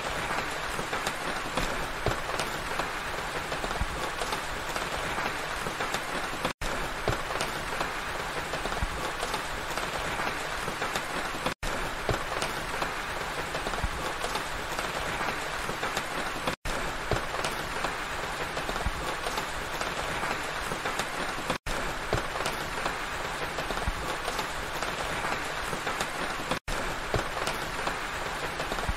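Steady rain falling through pine trees: an even hiss of many small drops. It drops out for a split second about every five seconds.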